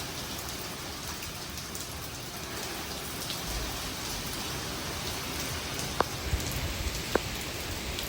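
Hurricane rain and wind: a steady, even rushing hiss of heavy rain. Two sharp knocks sound about six and seven seconds in.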